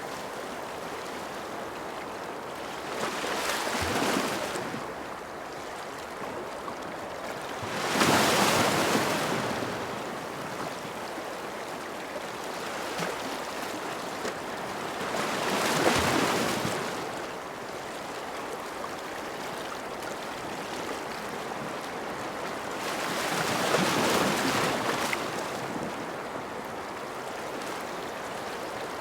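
Ocean waves breaking and washing in: four slow surges several seconds apart over a steady hiss of surf.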